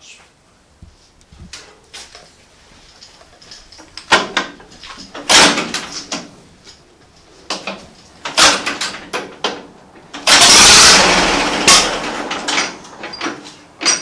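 Irregular metallic knocks and clatter of tools and parts being handled on a vintage tractor engine, with a noisy burst lasting about a second a little after the middle.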